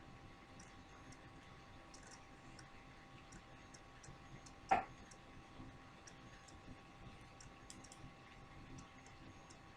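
Faint, irregular high ticking and clicking over a faint steady hum, with one sharp tap about halfway through.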